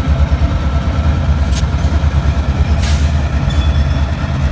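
Diesel locomotive engine running with a steady low rumble, with two short sharp knocks about a second and a half apart in the middle.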